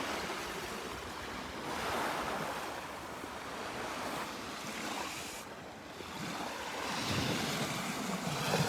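Small waves of the Sea of Galilee washing onto the shore, swelling twice, with some wind on the microphone.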